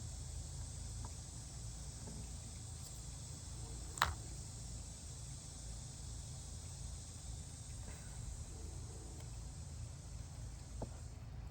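Faint, steady high-pitched insect chirring over a low hum, with one sharp click about four seconds in and a softer one near the end; the chirring cuts off just before the end.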